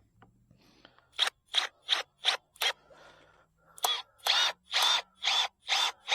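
Rhythmic rasping strokes from work on the coop fence: five short strokes about three a second, then, after a short pause, a run of longer strokes.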